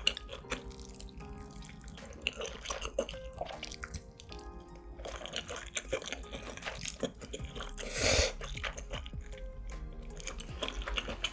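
Close-miked mukbang eating sounds: wet chewing and many small mouth clicks, with a short, louder noisy burst about eight seconds in, over soft background music.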